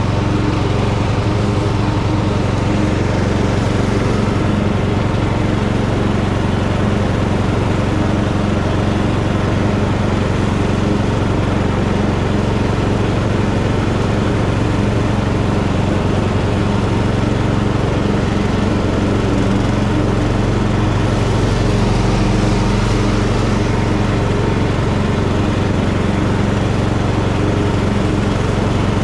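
Tractor engine running steadily while mowing tall grass, an even, unbroken engine drone.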